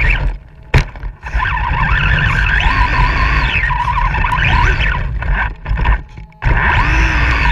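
A truck's motor revving up and down, its whine rising and falling in pitch over a steady low rumble. The sound drops out briefly twice, with a sharp click at the first dropout.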